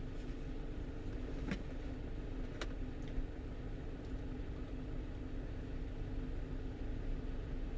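A 1-ton truck driving, heard from inside the cab: a steady engine drone over road rumble. Two sharp clicks come about a second apart, a second and a half in.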